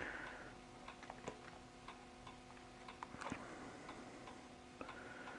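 Faint regular ticking, about three ticks a second, over a low steady hum, with one slightly louder knock about three seconds in.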